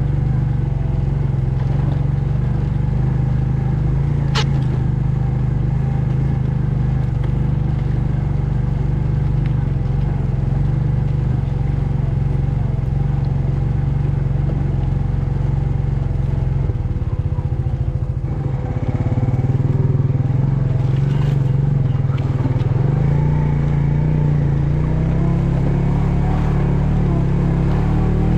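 An engine running steadily. A sharp click comes about 4 seconds in, and the engine dips briefly around 18 seconds in before picking up a little louder.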